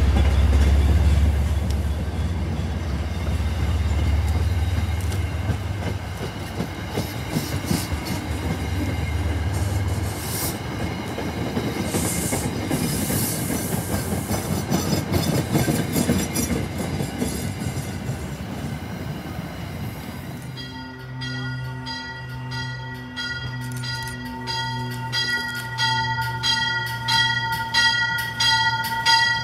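Diesel-hauled MBTA commuter train rolling past and away, with a heavy low engine rumble that fades after about ten seconds, leaving the clatter of wheels on the rails. About twenty seconds in the scene changes to a train's bell ringing steadily as the train pulls into the station.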